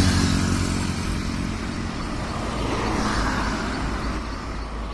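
Motor vehicle running on the road: a low pulsing engine hum with road noise, loudest at the start and then steady.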